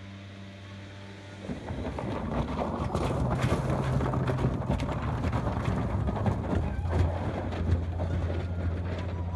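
A boat engine running, with wind buffeting the microphone; the sound grows louder and rougher about a second and a half in.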